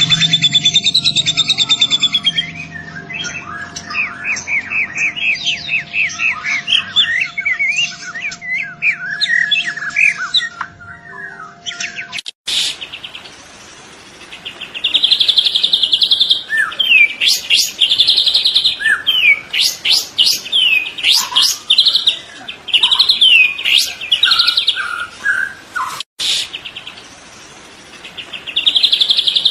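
Young white-rumped shama singing a loud, varied song of clear whistles, rising and falling phrases and fast chattering trills. The song breaks off abruptly twice, about twelve and twenty-six seconds in, then resumes.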